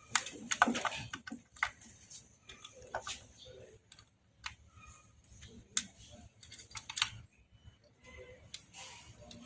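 Irregular light clicks and metallic clinks of small metal objects being handled, with a brief cluster just after the start and a few sharper clinks later.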